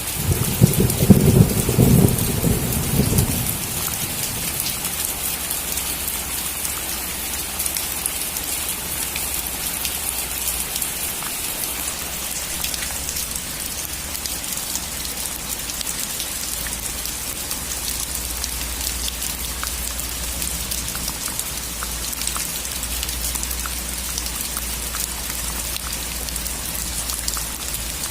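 Steady rain falling on a roof, a dense hiss with fine drop ticks, with a loud low rumble of thunder in the first three seconds or so that then dies away.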